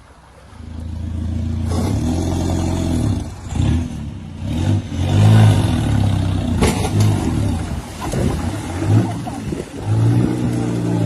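A vehicle engine running and revving up and down repeatedly, growing loud under a second in.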